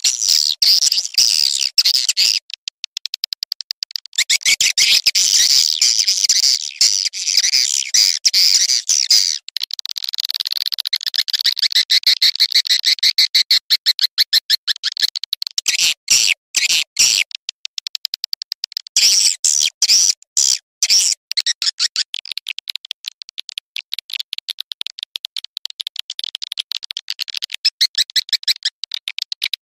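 Swiftlet lure call: a fast, high chattering twitter of rapid chirps in long bursts with short breaks. This is the kind of call played to draw swiftlets into a nesting house.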